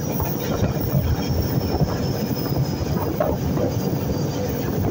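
Passenger train running along the track: a steady rumble of wheels and carriage, with faint scattered knocks and a faint high whine.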